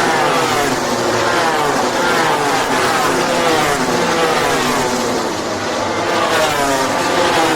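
Several racing motorcycle engines revving hard at once. Their pitches overlap and keep sweeping up and down as the bikes shift gears and go by.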